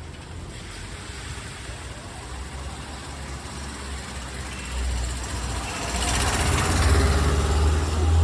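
A motor vehicle drives past on a wet street. A deep engine rumble and the hiss of tyres on water build up over several seconds, are loudest near the end, then start to fade.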